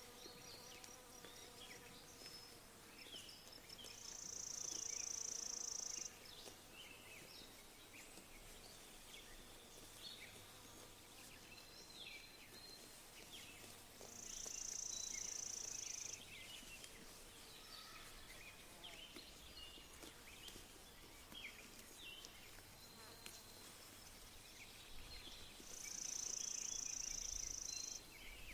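Quiet pasture ambience with scattered small bird chirps throughout, broken three times by a high-pitched buzz that holds steady for about two seconds, roughly ten seconds apart.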